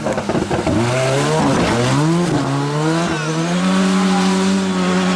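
Ford Sierra Cosworth rally car's turbocharged four-cylinder engine under hard acceleration. The revs drop at the start, then climb, dip once about two seconds in at a gear change, and climb again to hold steady and high.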